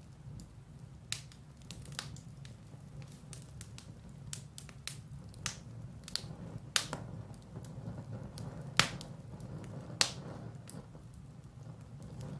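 Firewood burning in a fireplace: irregular crackles and sharp pops over a low steady rumble of the flames, with three louder pops in the second half.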